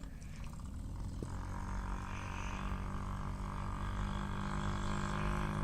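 Dirt bike engine running at a steady pitch, a faint hum that grows slowly louder.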